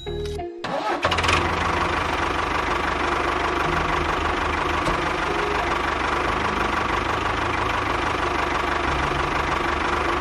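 A small engine starts up about a second in, then runs steadily with an even low chugging.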